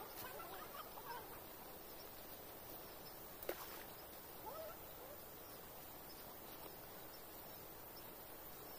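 Faint outdoor ambience: a steady low hiss with a few short chirping bird calls in the first second or so and again around four and a half seconds in. A single sharp click about three and a half seconds in is the loudest sound.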